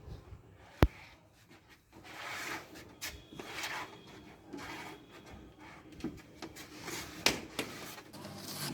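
Knocks and scraping of wooden pieces being handled: a sharp knock about a second in, stretches of rubbing and scraping, and another knock near the end.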